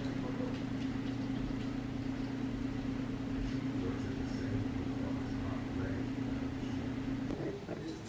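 A small electric kitchen appliance motor humming steadily, stopping shortly before the end.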